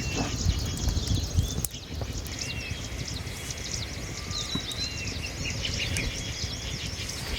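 Outdoor ambience of birds chirping: many short high chirps with a few brief rising-and-falling calls, over a steady low rumble.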